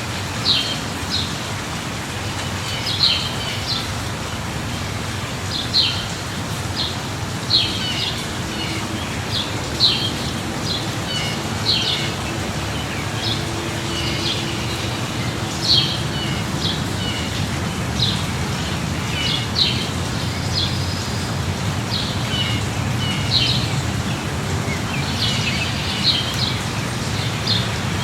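Steady light rain with a low rumble underneath, and a bird calling in short, high chirps every second or two.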